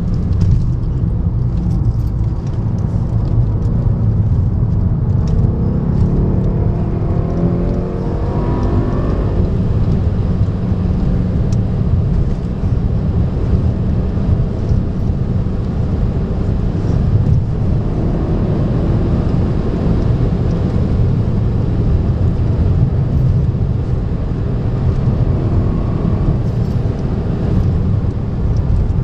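Mercedes C63's V8 engine running hard at speed, heard from inside the cabin over constant road and tyre noise. The engine note climbs in pitch as the car accelerates about six to nine seconds in.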